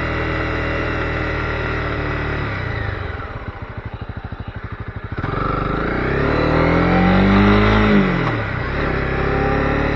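Honda CB250R's single-cylinder engine running at a steady speed, then dropping to idle with its slow, even firing pulses for a couple of seconds. The engine then revs up in a rising pitch and drops back sharply about eight seconds in, as at a gear change, before running steadily again.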